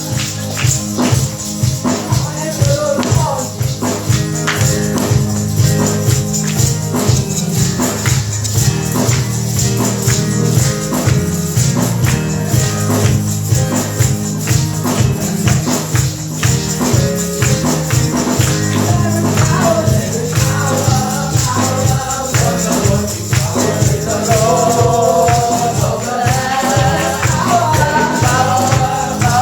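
Live gospel praise music with a steady beat, bass and tambourine, and singing that grows stronger over the last ten seconds.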